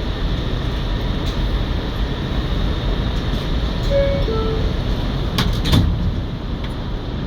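Inside an R211A subway car: steady low rumble of the car, a brief falling two-note chime about four seconds in, then two sharp knocks about a second later as the sliding doors close.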